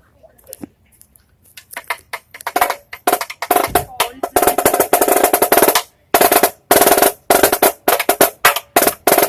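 Marching snare drum played solo: a few scattered strokes, then quickly building into loud, very fast rolls in several stretches with brief breaks between them.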